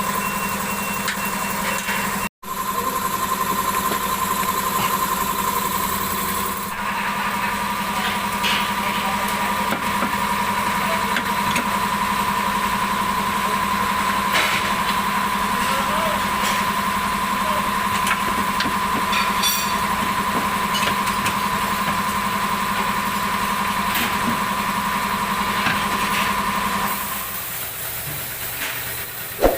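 A steady machine hum with two held tones, one low and one higher, overlaid with scattered short clicks and knocks. The hum drops out briefly a little over two seconds in and stops near the end.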